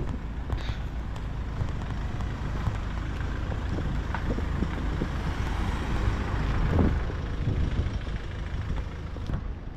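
Street traffic: a steady low rumble of vehicles driving by, swelling as one passes close about seven seconds in, then easing off.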